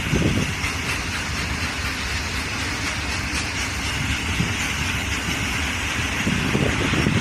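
An Indian Railways train running: a steady rush of noise, with heavier low pulses at the start and again near the end.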